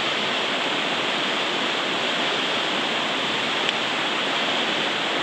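Steady rush of flowing creek water, with one small click about two-thirds of the way through.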